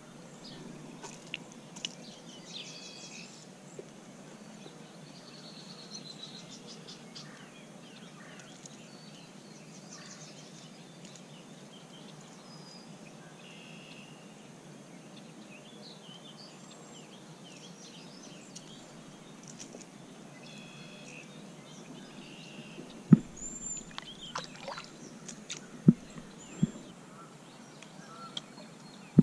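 Songbirds chirping and singing intermittently over a steady low background rumble, with a few sharp knocks near the end.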